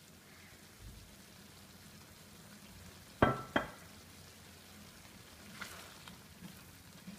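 Chicken in tomato masala sizzling quietly in a non-stick wok as it is stirred with a silicone spatula. About three seconds in, the spatula knocks twice against the pan, a third of a second apart.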